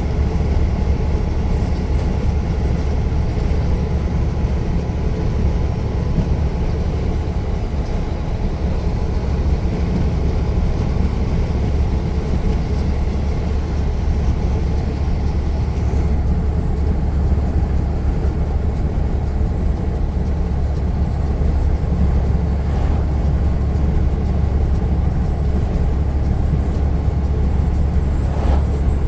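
Truck driving along: a steady low engine drone and road rumble, heard from inside the cab, holding even throughout with no shifts or sudden noises.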